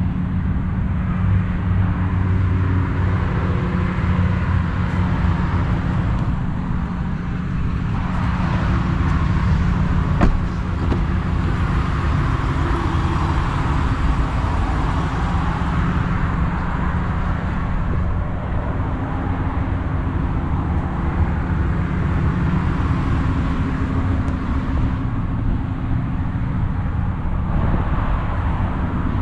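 A motor vehicle's engine running steadily: a low hum with a hiss over it that swells and eases. A single sharp click about ten seconds in.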